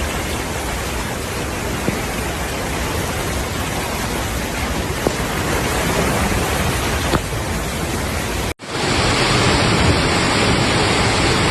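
Steady rushing noise of a storm's heavy rain and wind, with a few faint knocks. About eight and a half seconds in it cuts abruptly to a louder, brighter rush of heavy rain.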